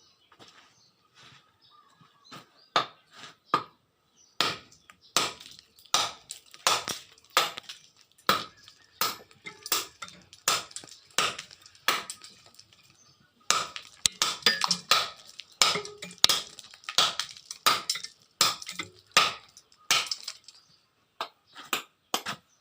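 A forged blade made from a car leaf spring chopping repeatedly into ulin (ironwood), about two sharp blows a second with a brief pause about twelve seconds in, each strike giving a slight metallic ring.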